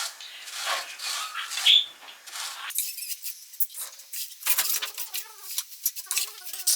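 A kitchen utensil stirring and scraping in a pan, about one stroke a second. A little under three seconds in this gives way to a quicker run of clinks and squeaks of utensils.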